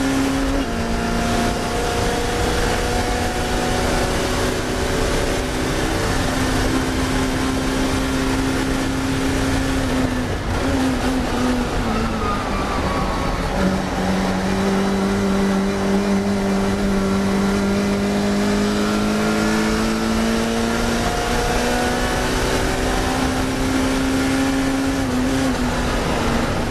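Classic Mini racing car's engine running hard at high revs. About halfway through the pitch drops and holds lower for several seconds, then climbs back up near the end.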